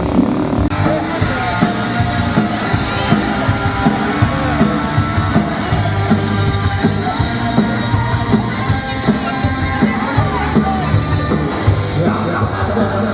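Live rock band playing a song, with drums, bass and guitars and a singer's voice.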